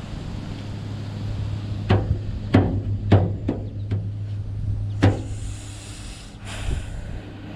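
About six sharp metallic clinks and knocks of hand tools working on bolts, spread over a few seconds, over a steady low hum. A short scraping hiss follows about five seconds in.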